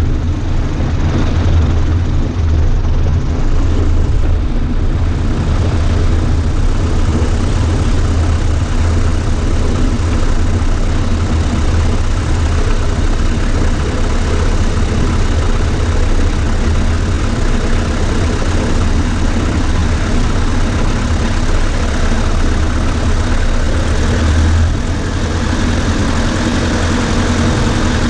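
Cessna 140A's light-aircraft piston engine and propeller running steadily, a constant low drone, dipping slightly in level about 25 seconds in.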